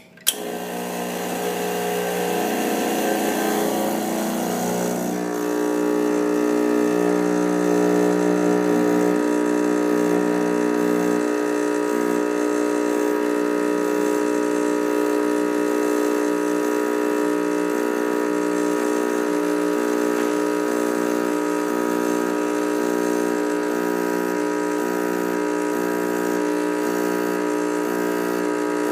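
Espresso machine pump running through a shot. It switches on with a click just after the start, shifts for about five seconds as it builds up, then holds a steady hum.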